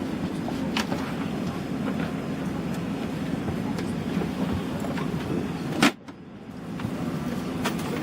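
Steady cabin hum of an Airbus A380 during boarding, with scattered clicks and knocks. About six seconds in a sharp knock is followed by a sudden drop in sound, which fades back over about a second.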